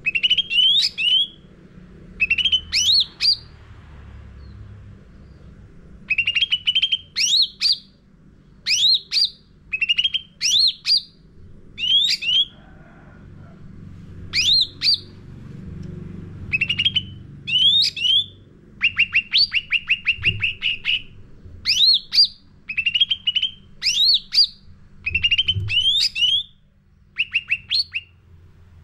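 Cucak ranting songbird singing loudly in short, rapid phrases of quick notes that sweep upward, repeated about once a second with a few brief pauses. A faint low hum sits underneath.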